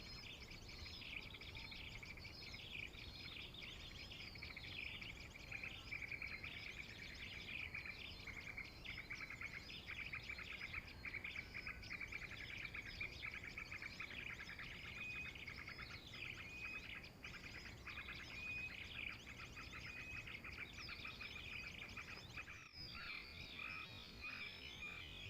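Many small birds chirping and twittering together, a dense run of short high calls and trills, with a brief break near the end.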